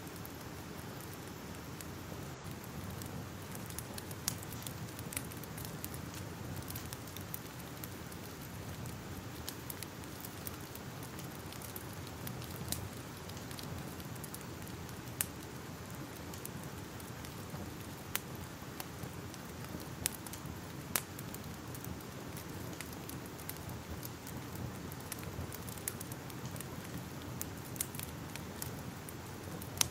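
Wood fire crackling: a steady low rush with irregular sharp pops and snaps scattered throughout.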